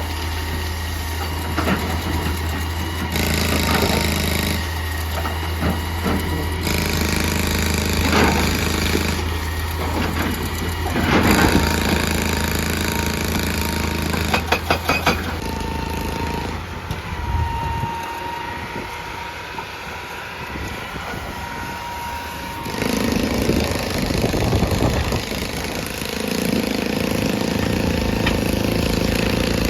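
Excavator diesel engine running under load, with heavy knocks and clanks of work on rock and a short burst of rapid, even hammering about fourteen seconds in. After that the engine drops back, a thin high whine runs for several seconds, and the engine picks up again near the end.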